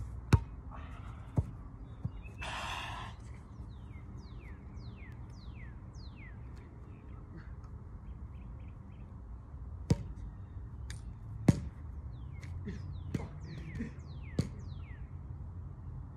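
A songbird singing series of quick, falling whistled notes, in two spells, over a low steady outdoor rumble. There is a short harsh rasp about two and a half seconds in, and a handful of sharp knocks scattered through.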